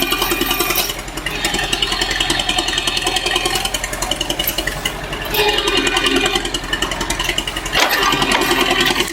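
Engine running steadily with a rapid pulsing beat; the sound shifts in character a few times.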